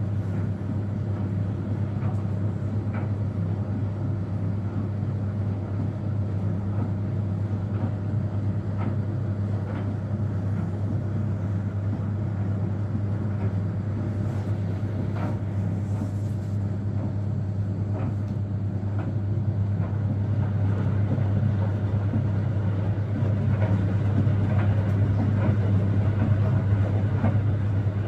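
Steady low mechanical hum from a running machine, with faint irregular clicks, growing a little louder near the end.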